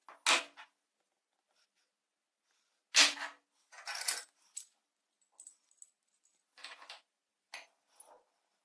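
Metal parts being handled and set down: two sharp metallic knocks, a little after the start and at about three seconds, then a string of lighter clinks with a faint ringing.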